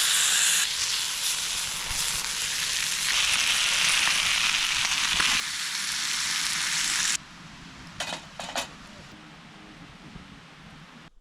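Meat sizzling loudly on a thick steel griddle plate, a steady hiss that cuts off suddenly about seven seconds in. After it comes a quieter stretch with a few short clicks.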